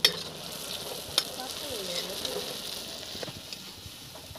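Onion-tomato masala sizzling in hot oil in a steel kadhai, wet from water just added, while a steel ladle stirs it, with a few sharp clicks of the ladle against the pan.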